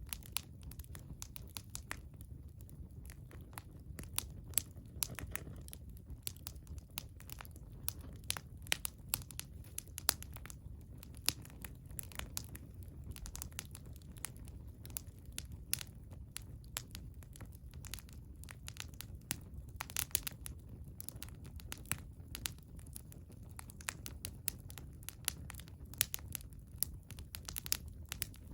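Wood fire burning, with irregular sharp crackles and pops over a low, steady rumble.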